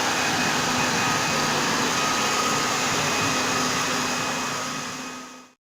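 Ride-on floor scrubber running with a steady whirring hiss and a faint whine from its vacuum motor, fading out about five seconds in.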